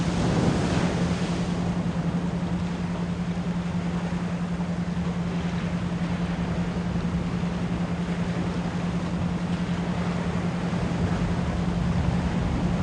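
Steady 174 Hz pure tone pulsing rapidly on and off as an isochronic beat, layered over the continuous wash of ocean surf, with a wave swelling in during the first second or so.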